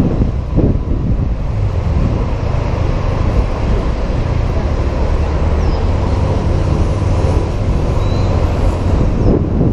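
Wind buffeting a helmet camera's microphone on a moving Honda PCX 125 scooter, a steady low rumble over the scooter's small single-cylinder engine and the road traffic around it.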